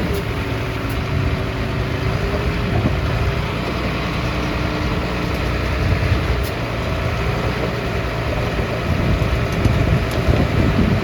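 Heavy diesel engine of earth-moving machinery running steadily: a low rumble that swells a little a couple of times.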